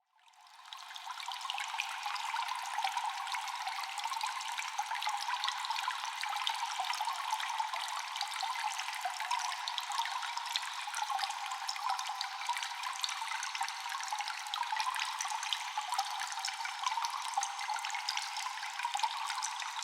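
Cave ambience of constant dripping water: many drops falling close together over a steady trickle, all thin and without low end. It fades in from near silence over the first second or two, then holds steady.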